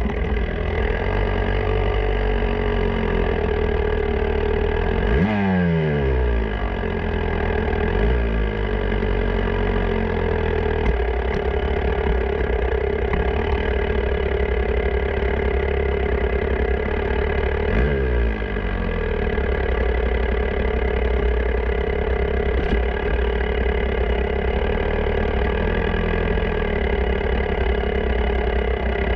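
Motocross bike engine heard from an onboard camera, running steadily at low revs, with two short blips of throttle whose pitch falls away, about five seconds in and again past the middle.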